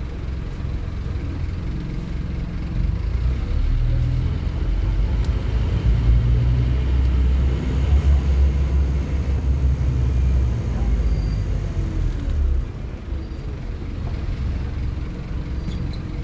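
Scania N230UD OmniCity bus's diesel engine pulling hard under acceleration, growing louder about two and a half seconds in. It runs strongly with its pitch gliding up and down, then drops back about twelve and a half seconds in as the bus eases off.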